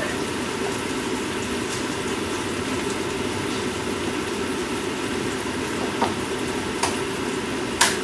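A steady mechanical hum in the kitchen, with a few light clicks or knocks in the second half, the last one a little louder near the end.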